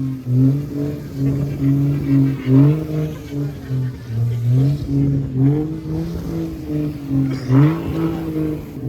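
Single-turbo BMW 335i's 3.0-litre inline-six engine revving up and down over and over, its pitch rising and falling every second or so.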